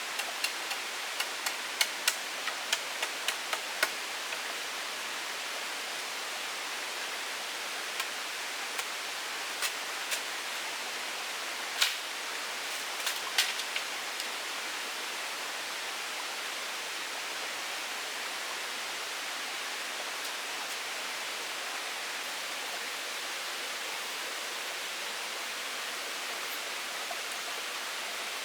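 A steady, even rush of water noise, with a quick run of sharp, irregular clicks and knocks in the first few seconds and a few scattered ones up to about halfway.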